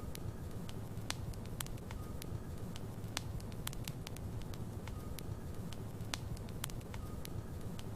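Logs burning in a fireplace, crackling with frequent irregular sharp pops over a steady low rumble of the fire.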